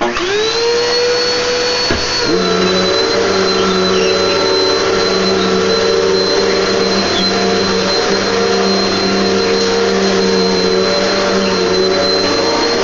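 Hoover NANO Cyclonic bagless upright vacuum cleaner switched on: the motor spins up quickly with a rising whine, settles about two seconds in, then runs steadily.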